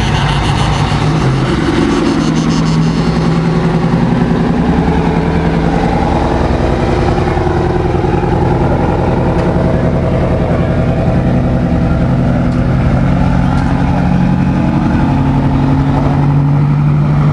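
Twin-turbo Detroit Diesel 8V92 two-stroke V8 of a Peterbilt 379 running loud through straight pipes, its note stepping up and down as it is revved.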